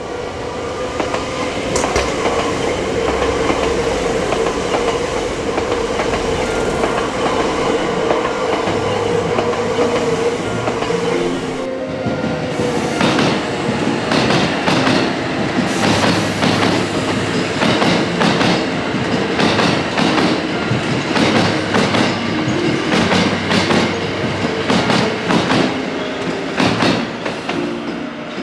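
Hankyu electric train running: a steady hum with a held tone for about the first twelve seconds, then a sudden change to a fast, regular clatter of wheels over rail joints.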